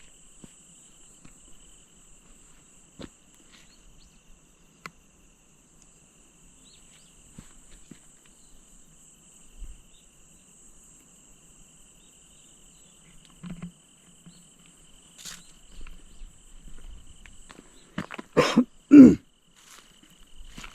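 Insects in the field trilling steadily at two high pitches, over faint scattered clicks and rustles. Near the end come two loud, short sounds, like a person coughing.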